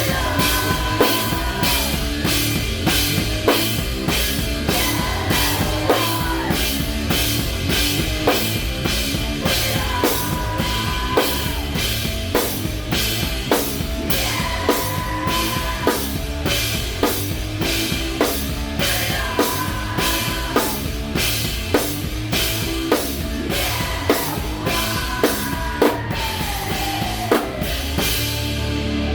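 Live rock band playing an instrumental passage: a steady drum kit beat with bass and electric guitar, the guitar line sliding up and down in pitch every few seconds.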